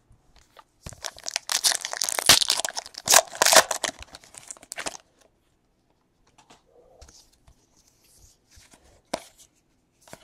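Wrapper of a trading-card pack being torn open and crinkled for about four seconds, then a few faint light clicks.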